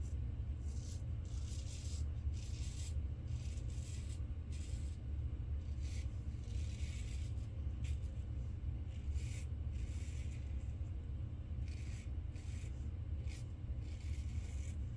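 Razor blade scraping through lather and stubble in many short, irregular strokes, over a steady low hum.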